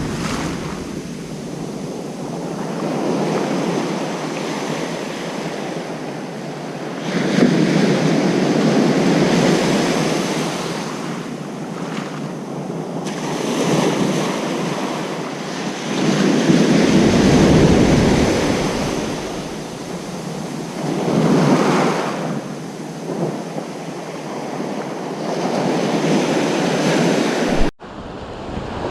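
Ocean surf breaking on a beach, the wash of waves rising and falling in swells every few seconds. The sound cuts out for an instant near the end.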